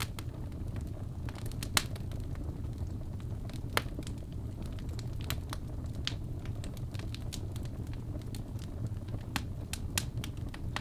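Wood fire crackling: a steady low rumble of flames with irregular sharp pops, the loudest about two and four seconds in.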